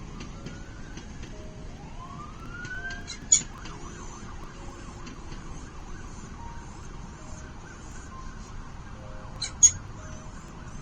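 A distant siren wailing, its pitch rising and levelling off, over a steady background hiss. Two short, sharp chirps stand out, one about a third of the way in and one near the end.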